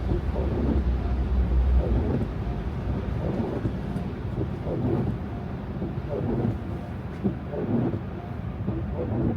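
Car driving on snow-covered streets: a steady low rumble of tyre and road noise with the engine, swelling and easing unevenly.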